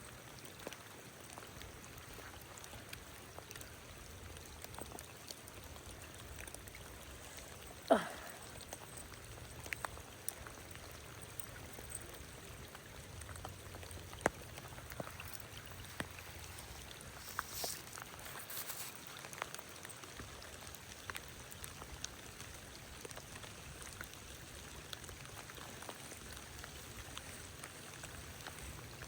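Steady light rain and creek water, with scattered raindrop taps. About eight seconds in, a single brief whoosh dropping in pitch is the loudest sound.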